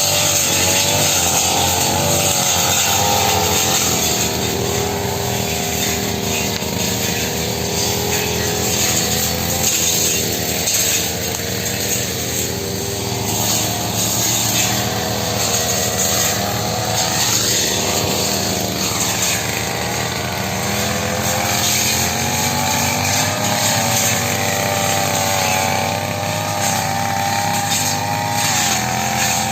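Brush cutter's small petrol engine running at high revs, its pitch dipping and rising as the blade takes load while cutting grass and undergrowth.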